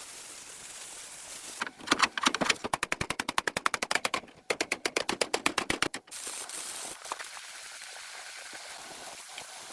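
A rapid series of sharp clicks or impacts, about ten a second, in two bursts of a few seconds each, followed by a faint steady hiss.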